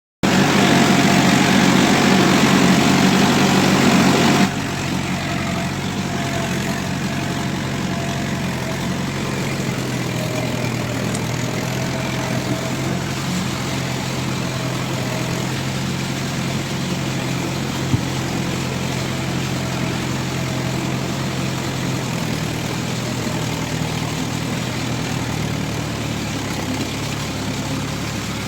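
Trakstar 550 tractor's diesel engine running steadily. It is louder and noisier for the first four and a half seconds, then drops abruptly to a quieter, even running sound. There is a single sharp click about eighteen seconds in.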